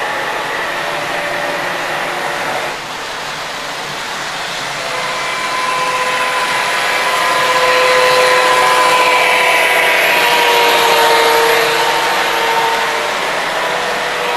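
An MTH Premier O-gauge model diesel locomotive and its flatcars running on the track: a steady rolling rumble with a whining tone that grows louder from about five seconds in as the train nears, then eases off near the end.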